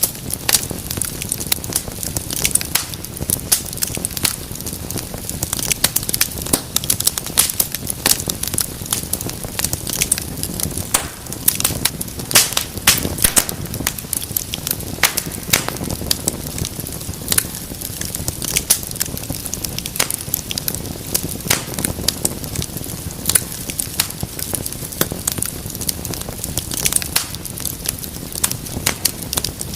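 Wood fire crackling and popping: many sharp snaps, some louder than the rest, over a steady low rumble of burning.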